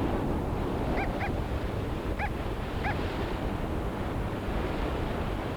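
Sea water and surf washing steadily, with four short high calls in two pairs in the first three seconds.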